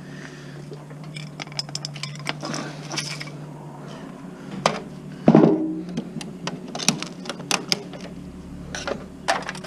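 Plastic and metal parts of a consumer electronics unit clicking and clattering as it is pulled apart by hand, with one louder knock about five seconds in. A steady low hum runs underneath.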